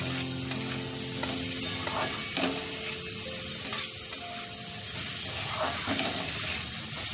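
Chopped vegetables sizzling as they fry in oil in a pan, stirred with a spoon that scrapes the pan every second or so.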